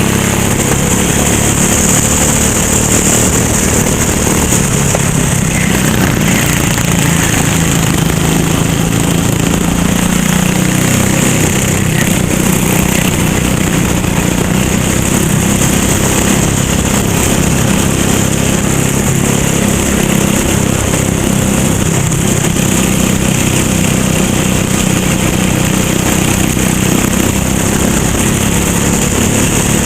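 Racing kart engine running hard; its pitch dips about ten seconds in, as when slowing for a corner, then climbs again as it pulls back up, with a steady high hiss throughout.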